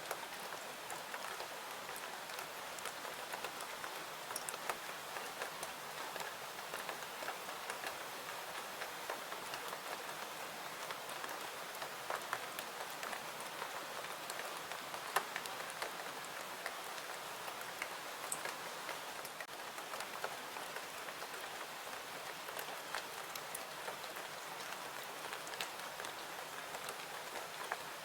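Steady rain: an even hiss with scattered sharp ticks of individual drops, one louder tick about fifteen seconds in.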